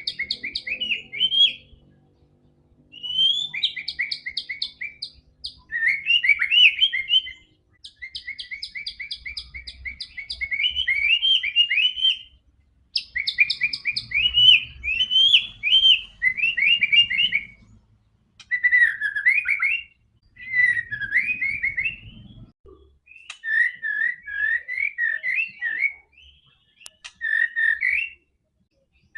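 White-rumped shama (murai batu) in full song: phrase after phrase of rapid trills and rising, falling whistled notes, each burst one to three seconds long with short pauses between.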